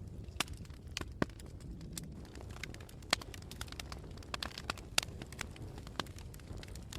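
Wood fire burning with a low rumble and irregular sharp crackles and pops, a few standing out louder than the rest.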